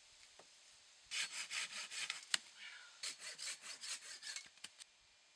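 Hand saw cutting wood in two quick runs of back-and-forth strokes, with a sharp click between them and two short knocks near the end.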